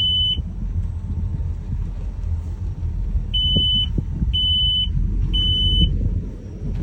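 Boat engine running low with a steady rumble as the boat comes in. Over it a high electronic beep sounds once at the start, then three more times about a second apart, each about half a second long.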